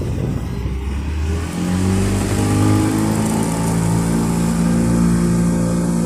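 Boat engine picking up speed from a low idle about a second and a half in, then running steadily at higher revs.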